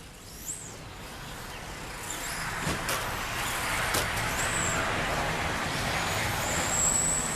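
Electric RC stadium trucks racing on a dirt track: a rushing noise of motors and tyres that grows louder from about two seconds in, with a high-pitched motor whine rising and falling and a few sharp clicks.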